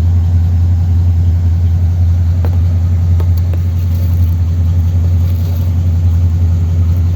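1957 Ford Thunderbird's Y-block V8 idling steadily after a cold start.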